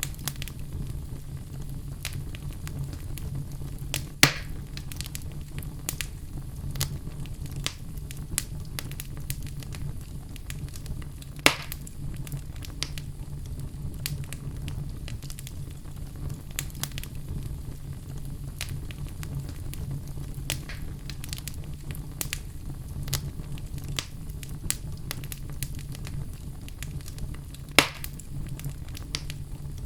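Fire in a fireplace crackling: frequent small snaps over a steady low rumble, with three louder pops spread through it.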